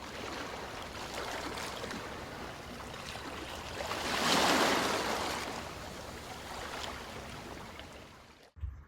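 A steady rushing noise like running water, swelling to its loudest about halfway through and fading away near the end.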